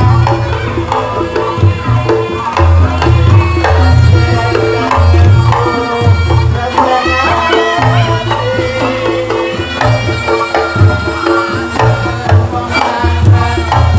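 Reog Ponorogo gamelan ensemble playing: kendang drums and a reedy slompret melody wavering over repeated low gong notes.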